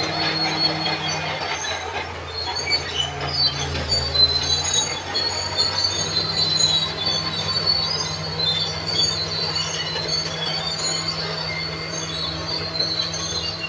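Crawler bulldozer at work: a diesel engine running under high, irregular metallic squealing from the steel tracks. The engine note shifts for a few seconds near the start.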